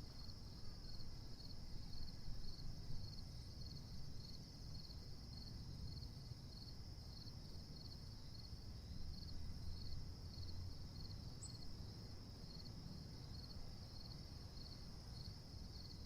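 Insects chirping steadily: a high continuous trill with a pulsing chirp about three times a second, over a faint low rumble.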